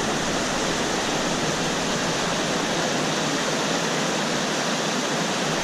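Steady rushing of a monsoon-swollen mountain stream in flood.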